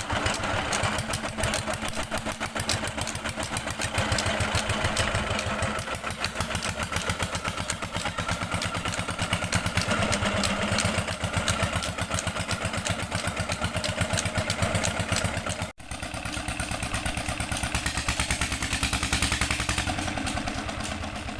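Old 16-horsepower Petter diesel engine running steadily with a rapid, even beat. The sound cuts out for an instant about two-thirds of the way through and then carries on the same.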